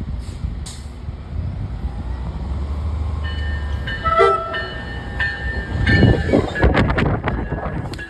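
Coaster commuter train running in at speed with a low rumble, sounding its horn twice in short blasts a few seconds in. It then rushes past close by with a loud surge of train noise and wind buffeting.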